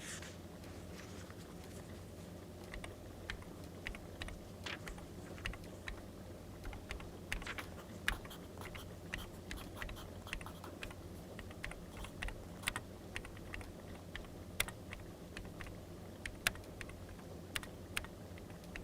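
Crackling wood fire: irregular sharp pops and snaps, a few louder than the rest, over a steady low rumble.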